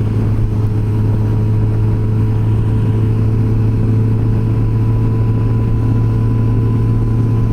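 Yamaha FJR1300 motorcycle's inline-four engine running at a steady cruising speed on the highway: a constant, even drone with no change in pitch.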